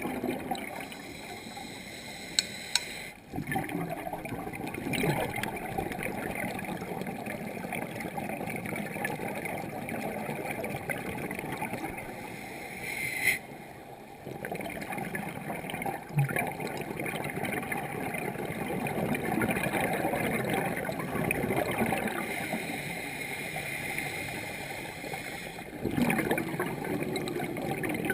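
Underwater bubbling and gurgling, as heard during a scuba dive, with two sharp clicks about two and a half seconds in. The water sound dips briefly three times.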